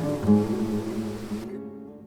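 Background music on acoustic guitar, its notes fading. A steady hiss under the music cuts off suddenly near the end.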